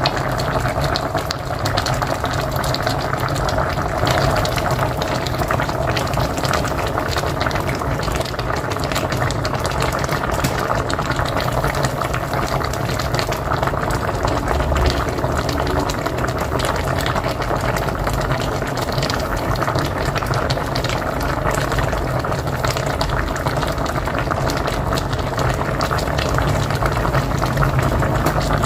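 Pot of mocotó (beef feet) boiling hard on a wood-fired stove: steady bubbling and blurping of the broth.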